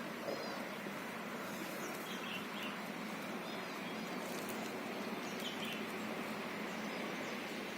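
Outdoor ambience: a steady hiss, with small birds giving short, faint chirps now and then.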